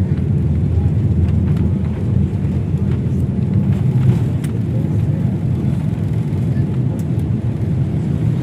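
Steady low rumble of jet airliner cabin noise, engines and airflow, with a few faint clicks.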